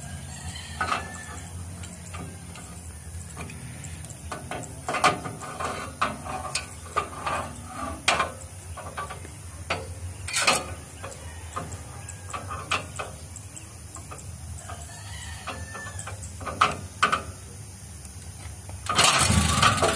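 Scattered metallic clinks and knocks from the starting handle of a 1961 Land Rover Series being fitted through the front bumper and hand-cranked. About a second before the end the engine catches at once and keeps running.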